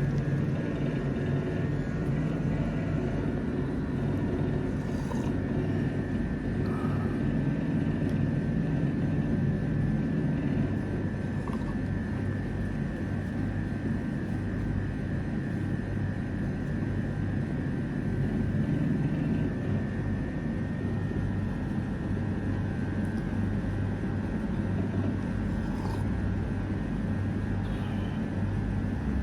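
A steady mechanical hum with a constant high whine, like a motor or fan running, fading slightly about two-thirds of the way through.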